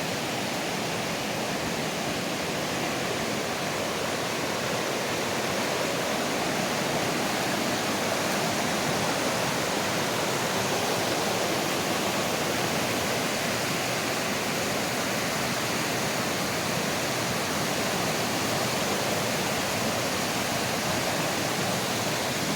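Rain-swollen mountain creek rushing in a steady, unbroken roar of water.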